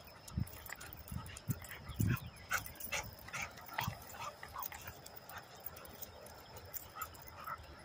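American Bully XL dogs whimpering faintly in short, scattered calls, with a few soft knocks and clicks among them.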